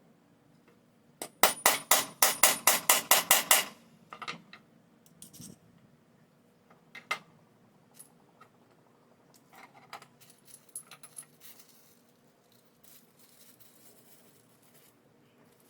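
A fast run of about a dozen hammer blows on a metal grommet-setting tool, roughly five a second, driving a grommet into a leather belt. A few scattered light knocks and clicks follow as the tools are handled.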